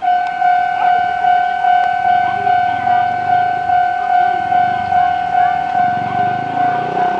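Level-crossing warning alarm sounding: one steady tone beating about two or three times a second, starting suddenly, with the low rumble of the approaching train rising beneath it from about five seconds in.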